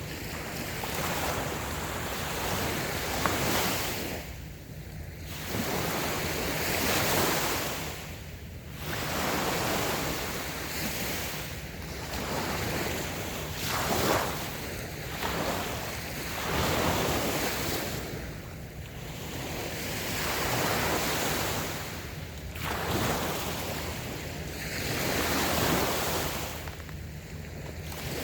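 Small waves breaking and washing up a sandy beach, the surf swelling and ebbing every few seconds, with some wind on the microphone.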